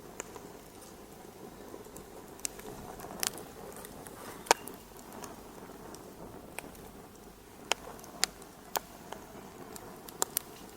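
Wood fire crackling in a fireplace: a soft steady hiss with irregular sharp pops, the loudest about four and a half seconds in and a quick pair near the end.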